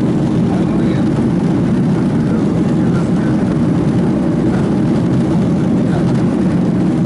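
Steady, unchanging engine and airflow noise of an airliner, heard from inside the passenger cabin during takeoff.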